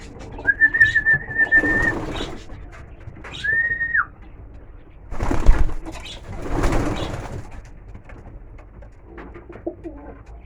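Pigeons cooing in a loft, with two long, steady high whistles, the second shorter and dropping at its end. A loud, noisy rustle or clatter comes about five seconds in.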